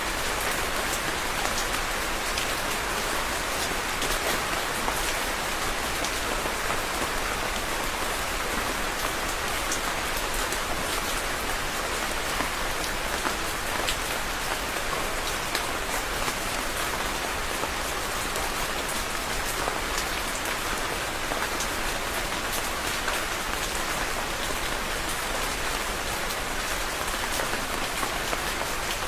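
Steady rain falling on a surface, a dense even patter with many fine drop ticks.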